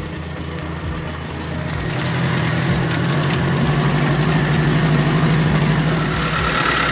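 A motor vehicle's engine running steadily, growing louder about two seconds in and then holding.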